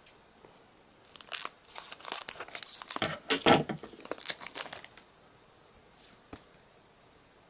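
A Pokémon booster pack's foil wrapper being torn open and crinkled, in a run of rustling bursts lasting about three and a half seconds, followed by a single faint click.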